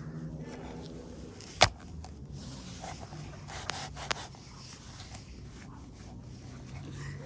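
Rubbing and handling noises with one sharp knock about a second and a half in and two lighter clicks a little later, over a steady low hum.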